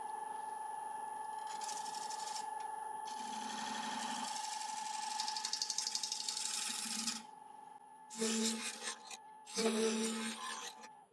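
Wood lathe running with a steady whine while a scraper cuts the edge of a spinning laburnum bowl in several scraping passes, with short pauses between them. All of it cuts off suddenly at the end.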